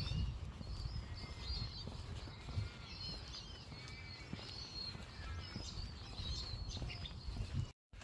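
Several small birds chirping and calling in quick, overlapping short notes, over a low rumble of wind on the microphone and soft footsteps on a paved path. The sound drops out for an instant near the end.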